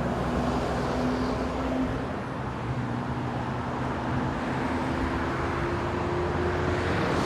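A car driving along: steady road and engine noise.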